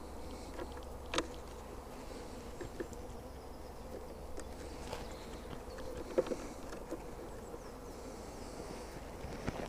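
Honeybees buzzing steadily around an opened hive, with a few sharp clicks and knocks, the loudest about a second in and about six seconds in.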